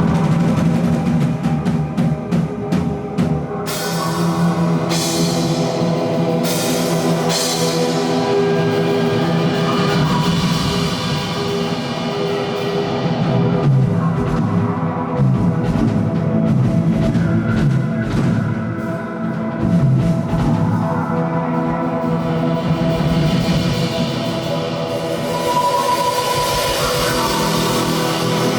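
Live rock band playing, with a drum kit and sustained chords, and crashing cymbals about four to seven seconds in.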